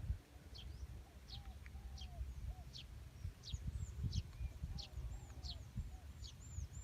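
Birds calling repeatedly, with short, high, falling notes about twice a second and lower, softer arched notes mixed in, over a low rumble of wind.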